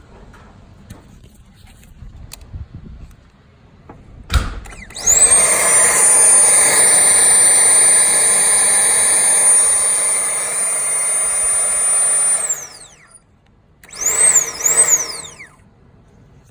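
Ford Fusion's electric secondary air injection pump being tested: after a click, it spins up with a quickly rising high whine and rush of air, runs steadily for about seven seconds, then winds down. It is switched on twice more briefly near the end, each time whining up and down.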